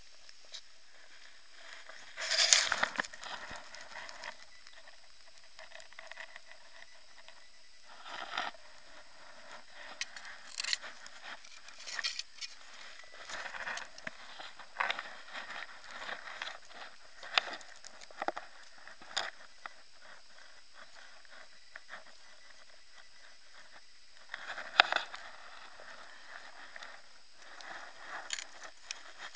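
Scattered crackling, scraping and rustling in heavy rain, picked up close by an action camera's microphone, with two louder bursts of rustling about two seconds in and again near the end.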